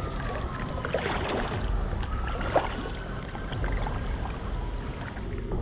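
River water running and splashing around a kayak, with a few sharper splashes about a second in and again midway.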